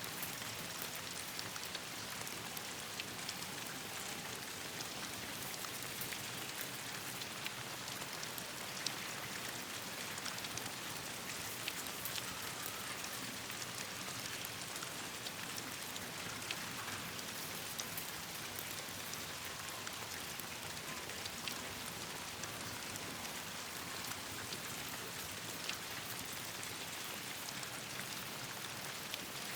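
Steady rain falling on leaves and branches: an even hiss with many scattered drop ticks.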